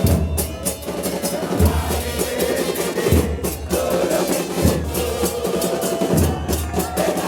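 Drums with music: a heavy bass drum hit about every second and a half under fast snare strokes, with a melody on top.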